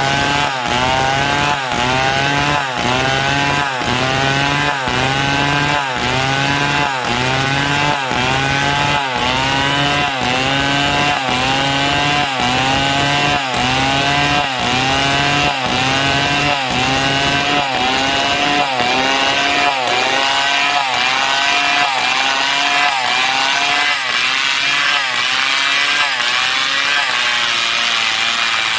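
Stihl MS 070 chainsaw, a large two-stroke, sawing through a palm trunk under load. Its engine pitch dips and recovers in an even rhythm, a little faster than once a second. Near the end the load eases and the pitch swings more freely.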